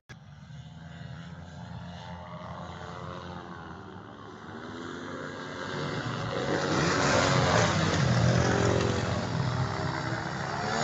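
Small engines running, with pitch rising and falling, building up to pass close about seven seconds in and then easing off. A brief dropout right at the start.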